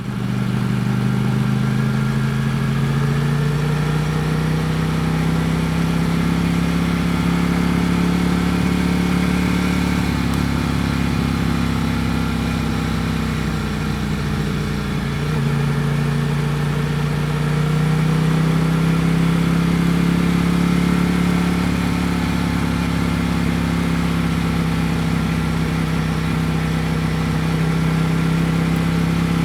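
Ducati Panigale V4 S's 1103 cc V4 engine running on the move. Its pitch rises over the first few seconds and holds, dips about halfway through as the throttle eases, then climbs again and holds steady.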